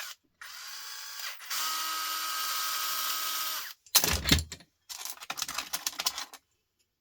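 Power drill running in two steady bursts, the second longer and louder, then a couple of loud knocks and a stretch of quick rattling clicks as the plastic fitting is worked apart.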